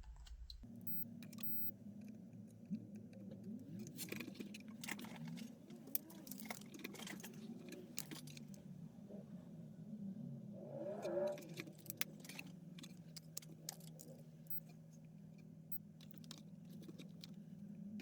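Scattered small metallic clicks and taps from handling tools and parts on a repair bench, over a steady low hum that starts abruptly about a second in.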